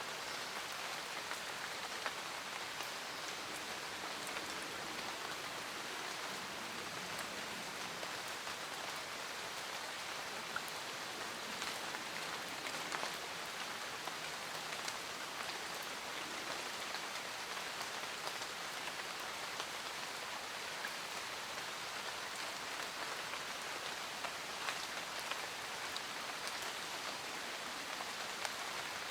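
Steady rain falling, an even hiss with many individual drops ticking sharply on a surface now and then.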